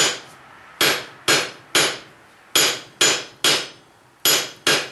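Hand hammer striking a hot quarter-inch round steel bar on an anvil, drawing out a taper for a nail. Nine ringing blows, coming in quick groups of two or three.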